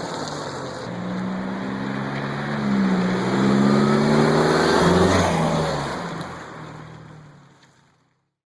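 Chevrolet Cruze 1.4L turbocharged four-cylinder running through a Magnaflow Street Series aftermarket exhaust: it runs steadily, revs up and holds near its peak, then falls back and fades out near the end.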